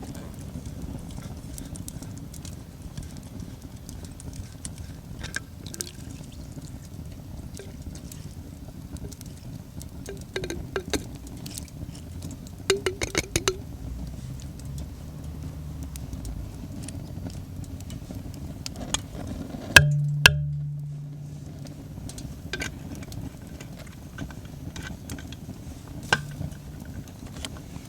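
Metal camp cookware being handled: scattered small clicks and two short runs of quick clinks near the middle, then a loud metallic clank about twenty seconds in that rings and fades over about a second, over a steady low rumble.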